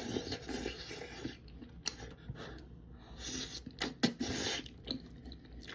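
Close-miked eating sounds: chewing of spicy Buldak noodles and rice cakes, with a few short wet, noisy bursts and mouth clicks.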